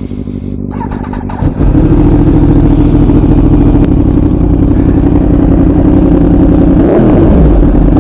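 A 2017 Yamaha R1's crossplane inline-four running through an aftermarket Leo Vince 3/4 exhaust. It is quieter for about the first second and a half, then suddenly loud and steady as the bike gets under way. The pitch drops near the end.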